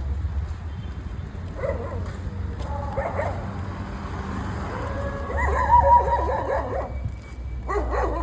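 A dog whining and yelping in several short bouts, the longest and loudest a little past the middle.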